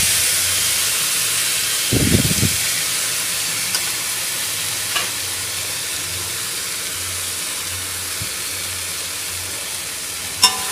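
Sliced bitter gourd sizzling in oil in a kadai, a steady hiss of the poriyal drying down on high flame with its oil separated out. A spatula stirs and scrapes the pan at the start and again about two seconds in, with a sharp click near the end.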